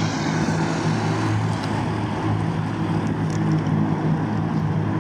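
Propeller aircraft engine droning steadily at a constant pitch.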